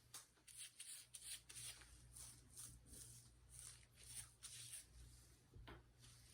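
Faint, repeated rubbing and brushing strokes, about two to three a second, of hair dye being worked into hair.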